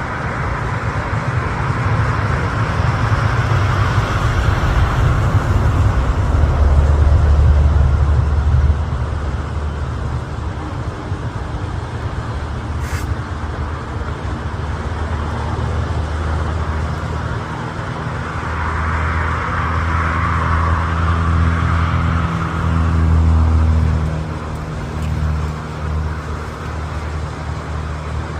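Road traffic passing: two vehicles swell up and fade away, one early and one past the middle, over a steady low rumble.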